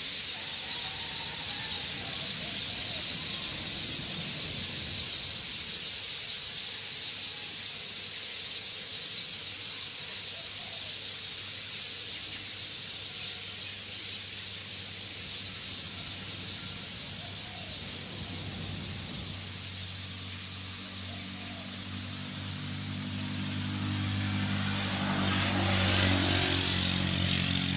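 Steady high-pitched outdoor hiss, with an engine coming in about two-thirds of the way through and growing louder as it approaches, loudest near the end.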